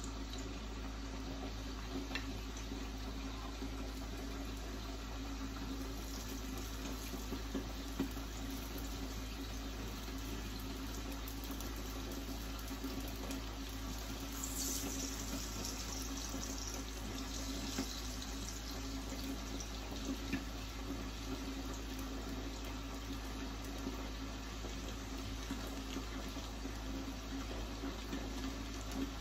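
Corn tortilla frying in hot oil in a frying pan: a steady sizzle, with a few light clicks of tongs against the pan.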